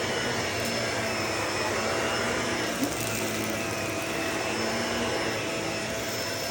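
Vacuum cleaner running steadily, its motor whine held at a constant pitch, with one brief click about three seconds in.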